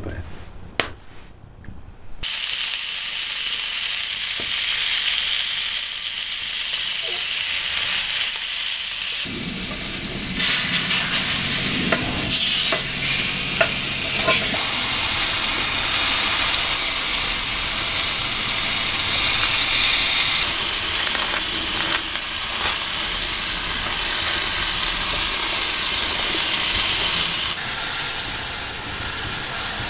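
Steak sizzling in a hunter's pan over a campfire. The sizzle starts suddenly about two seconds in, grows louder for a few seconds around the middle with scattered clicks, then settles to a steady hiss.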